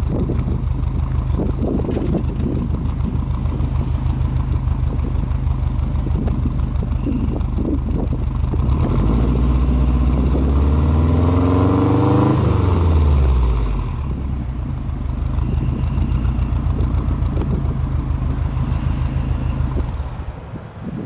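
Subaru Impreza WRX STi's turbocharged EJ20 flat-four idling at the tailpipe. About eight seconds in it is revved once, slowly, with the pitch climbing for about four seconds and then dropping quickly back to idle. Near the end the engine is switched off.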